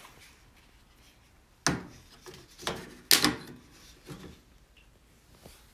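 Handling sounds: two sharp knocks, the first under two seconds in and the second about three seconds in, with rubbing and scraping between them.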